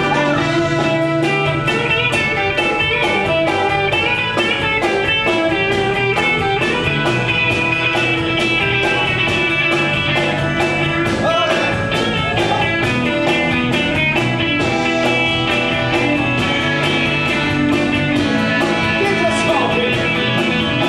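A live band playing: electric guitar over a steady drum beat.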